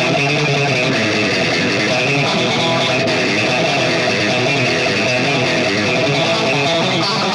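Electric guitar played continuously through a DemonFX Jan Ray overdrive pedal and amp modeller, giving a light, even overdriven tone.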